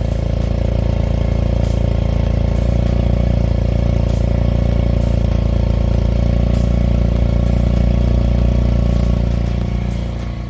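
Motorcycle engine running steadily at idle, fading out near the end.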